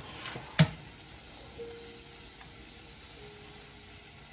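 Carrots, onion and garlic sautéing in a stainless steel pan, a steady low sizzle, with one sharp knock about half a second in.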